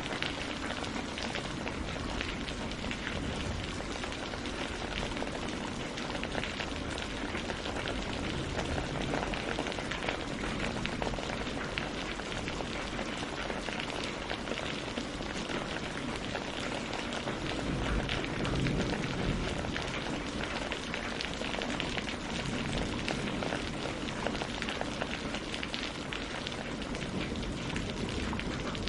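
Steady rain falling on leaves and on lake water, a dense even patter of drops.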